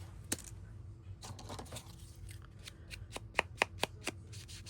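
Hand crafting on paper while distressing ('grunging') the back of a journal page: a run of light taps and clicks, a short rustle of paper about a second in, and a quick cluster of sharper taps a little over three seconds in.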